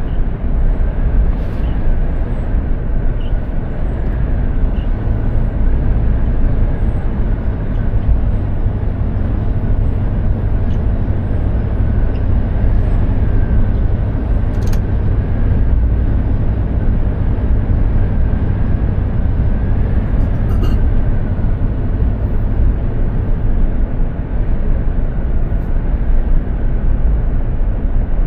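Mercedes-Benz Actros 2763 truck driving at a steady speed: a loud, even low rumble of engine and road noise with a faint steady whine over it.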